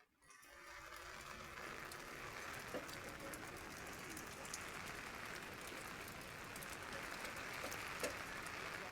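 Heavy rain falling steadily, with individual drops ticking through the even hiss; it fades up from near silence just after the start.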